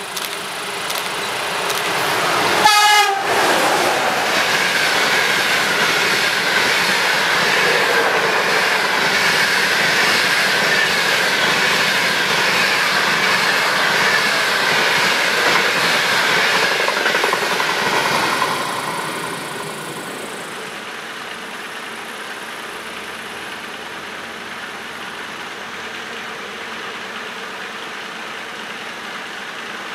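A train passing through the station, sounding a short horn blast about three seconds in, then wheels clattering and rushing over the rails before the noise drops away about nineteen seconds in.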